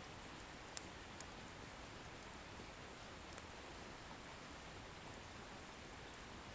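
Wood bonfire burning faintly, with a steady soft hiss and a few small, sharp crackles of the firewood, the loudest about a second in.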